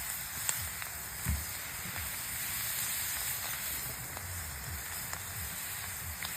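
Food sizzling in a hot pan over a wood fire, a steady hiss with a few sharp pops and crackles.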